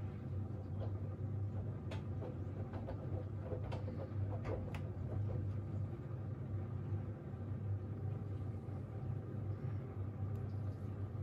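Siemens iQ700 WG56B2090 front-loading washing machine running its wash cycle, a steady low hum from the drum drive. A few faint clicks come in the first half.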